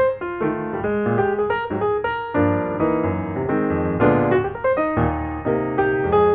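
Background piano music, a steady stream of notes with several often sounding together.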